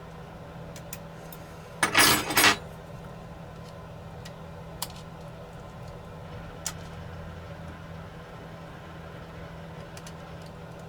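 Small hand tools and drone parts clicking and clattering on a workbench during disassembly: one brief, loud clatter about two seconds in, then a few faint clicks, over a steady low hum.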